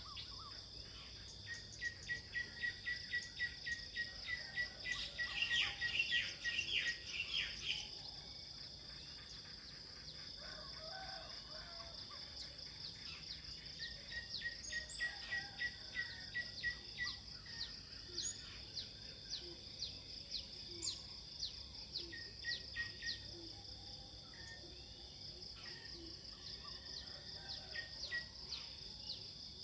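Nature ambience: insects such as crickets keep up a steady high-pitched trill, while birds call in quick runs of repeated chirps, loudest in the first several seconds and again about halfway through.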